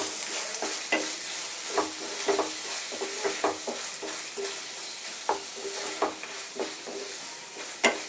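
Onion and tomato masala paste sizzling in hot mustard oil in a kadai while a spatula stirs it, knocking and scraping against the pan with a short ringing clink every second or so.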